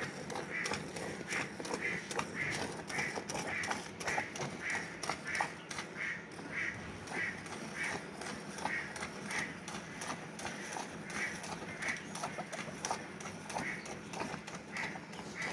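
A cow being milked by hand: streams of milk squirting into a bucket in a steady rhythm, roughly two squirts a second, with a few short pauses.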